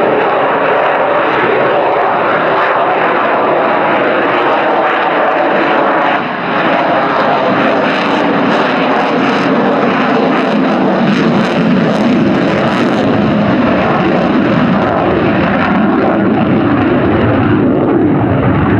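Loud, steady jet noise from the RAF F-35B Lightning II's single Pratt & Whitney F135 afterburning turbofan as the jet flies its display, with a faint slowly falling tone partway through.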